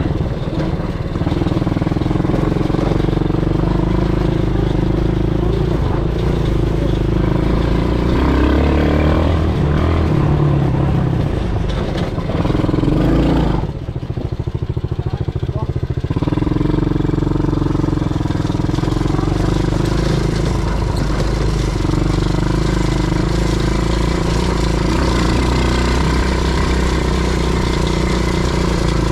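Quad bike engine running steadily while riding, the revs easing off about fourteen seconds in and picking up again a couple of seconds later.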